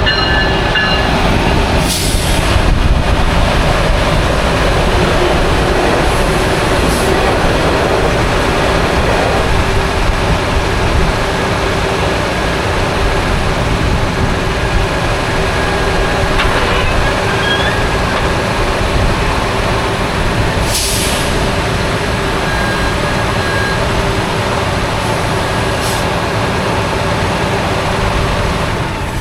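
A train running past close by: a steady, loud rumble with a constant hum.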